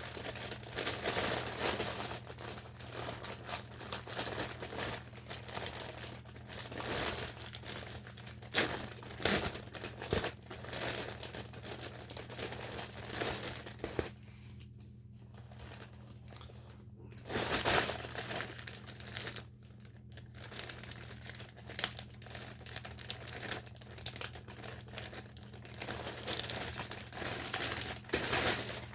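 Packaging being handled and opened by hand: irregular crinkling and rustling with occasional sharp clicks, easing off twice in the middle, over a steady low hum.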